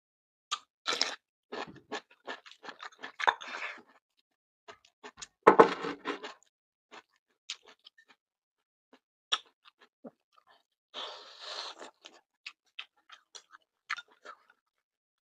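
A person eating close to the microphone: chewing and biting crisp food, with irregular short crunches and mouth clicks. The loudest cluster of crunching comes about halfway through.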